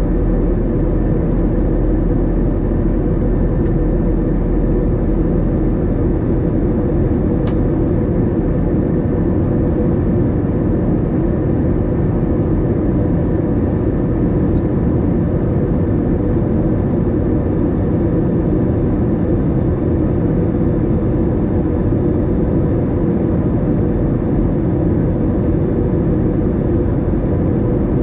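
Steady drone of airliner cabin noise inside an Airbus A321 on approach, engine and airflow noise heavy in the low end with a faint steady whine above it. Two faint clicks come about 4 and 7.5 seconds in.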